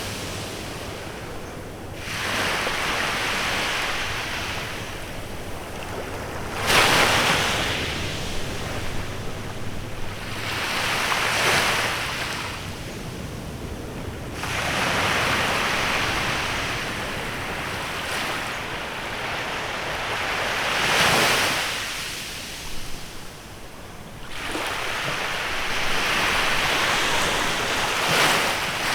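Small waves breaking and washing up on a beach, one after another every few seconds, with a light wind in the background.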